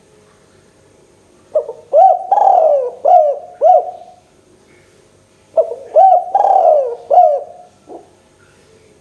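A spotted dove (tekukur) cooing: two loud phrases of about five low coo notes each, a second apart.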